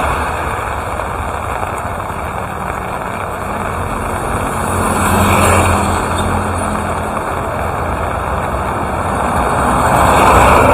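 Steady rain hiss with vehicles passing on a wet road, swelling and fading about every five seconds; a low engine hum comes through with the pass near the middle.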